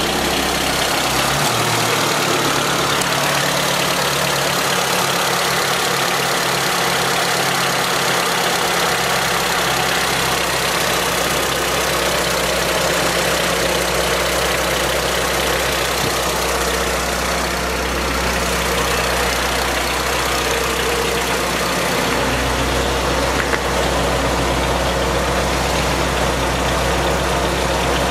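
Honda B18C 1.8-litre VTEC inline-four idling steadily with a mechanical noise that the owner suspects is piston slap from its CP pistons, a noise that goes away once the engine is warm. The low engine note shifts slightly about 22 seconds in.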